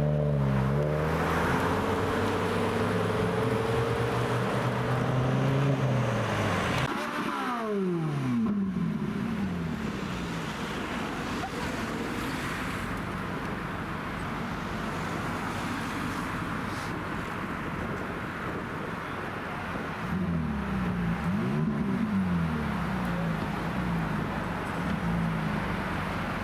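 Modified cars' engines and exhausts driving past. One engine runs steadily, then its pitch falls away about seven seconds in; around twenty seconds in, another engine's pitch rises and falls a few times.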